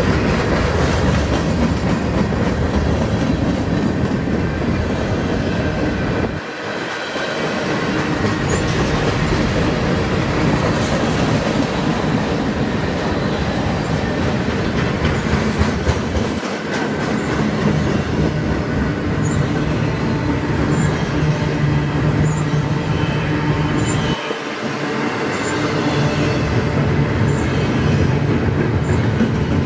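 Freight cars of a manifest freight train rolling past, their steel wheels rumbling and clacking on the rails. The rumble dips briefly three times.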